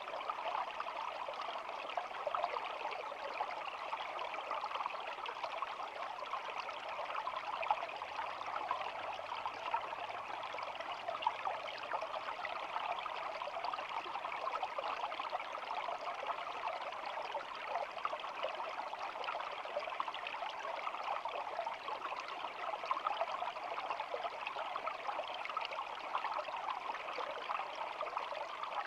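Water of a shallow stream babbling and trickling over rocks, steady and unbroken.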